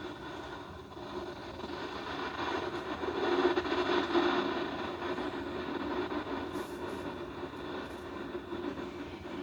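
Jet airliner engine noise, a steady rush that swells to its loudest about three to four seconds in and then eases off as the aircraft passes.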